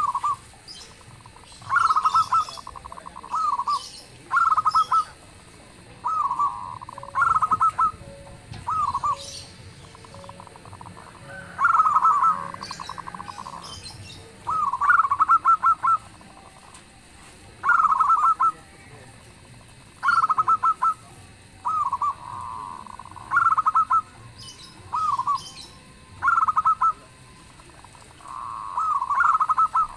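Zebra dove (perkutut) cooing: short trilled, rolling phrases repeated every two seconds or so, a few of them drawn out longer.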